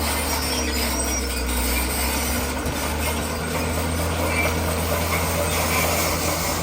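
Crawler bulldozer's diesel engine running steadily under load, with its steel tracks squealing and clanking as it pushes and spreads stone.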